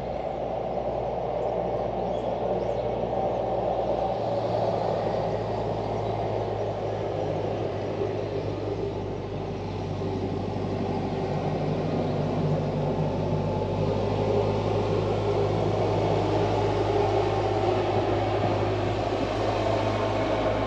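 A steady mechanical rumble with a low, even hum underneath, growing slightly louder in the second half.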